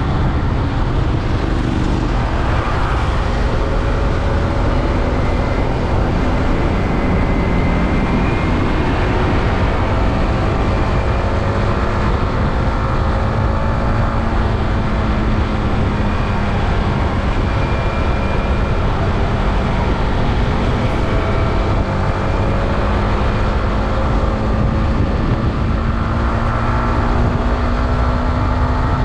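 Yamaha R15M's 155 cc single-cylinder engine running through its stock exhaust while under way, with heavy wind noise over the microphone. The engine note climbs slowly through the second half and drops near the end.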